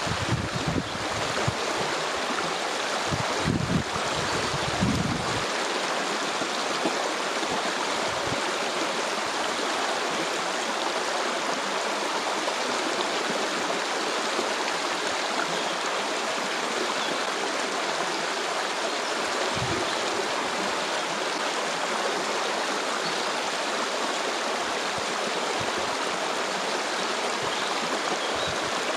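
Steady rushing of a flowing stream, an even splashing hiss that holds at one level throughout. A few low bumps are heard in the first five seconds.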